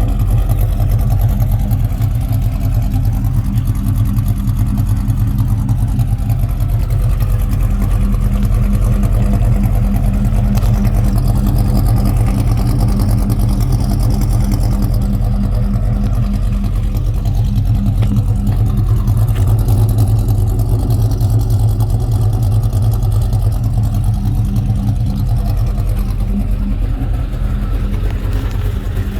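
2003 Ford 4.6-litre two-valve V8 idling steadily, with the clacking, ticking noise it is being run to show.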